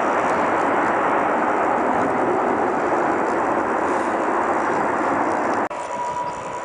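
Jet airliner engines running, a loud steady rushing noise. Near the end it cuts off abruptly to a quieter engine noise with a steady high whine.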